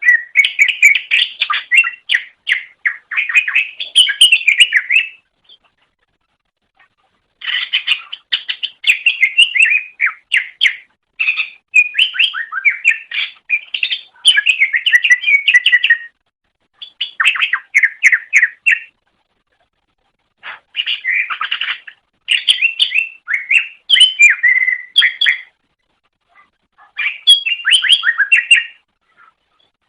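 Green leafbird (cucak ijo) singing in loud, rapid bouts of chirping, warbling notes, each bout lasting a few seconds, with short silent pauses between them.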